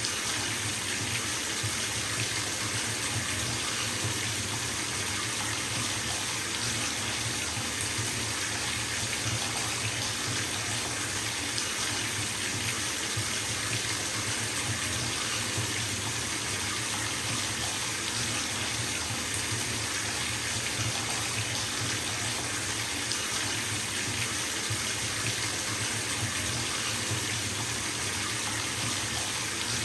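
Bathtub tap running at full flow, water pouring steadily into the tub as it fills.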